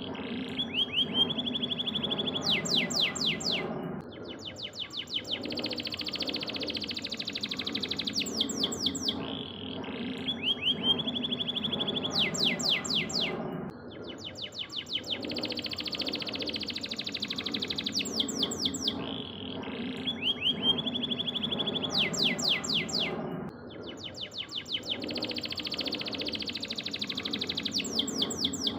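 Canary singing: fast trills and rapid sweeping whistled notes, the same song phrase repeating about every nine to ten seconds as a looped training recording.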